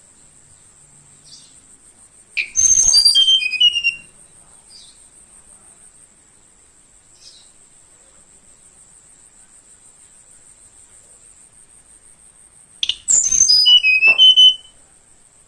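Tledekan Kalimantan, a blue flycatcher, singing two short phrases of clear whistled notes that step down in pitch, one about two and a half seconds in and one near the end. A steady high insect drone runs behind it.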